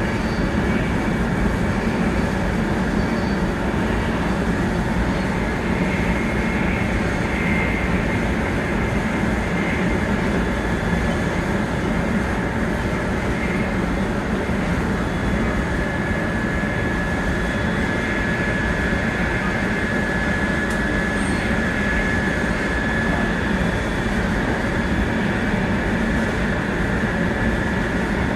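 Running noise of a 700 series Shinkansen heard from inside car 727-57: a constant rumble and rush at steady speed. A faint high whine runs through it and grows a little louder about halfway through.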